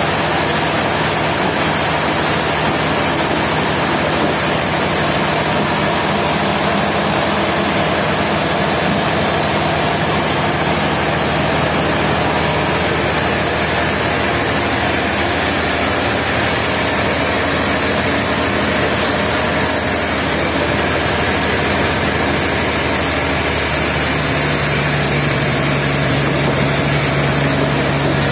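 Sawmill machinery running steadily: an engine-like hum under a dense, even wash of mechanical noise. A low steady tone grows stronger about 24 seconds in.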